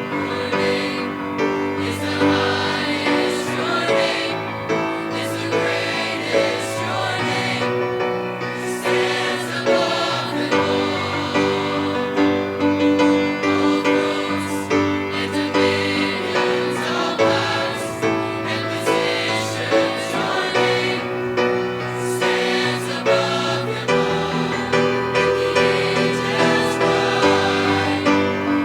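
A choir singing a gospel song, held chords in several voices over an instrumental accompaniment with a stepping bass line.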